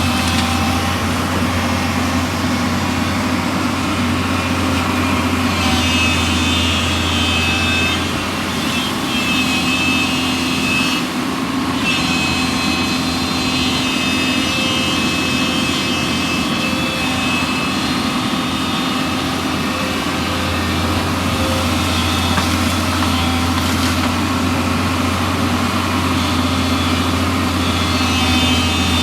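Hyundai Robex 210 excavator's diesel engine running steadily, with a constant low hum. A high whine comes and goes over it, and the hum eases off for a while in the middle.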